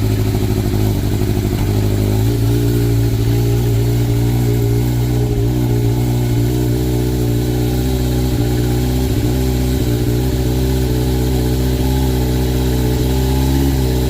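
Sportbike engine idling steadily on its first start after winter storage, its pitch stepping up slightly about two seconds in. It is running like there is something in the air cleaner, which the owner suspects but is unsure of.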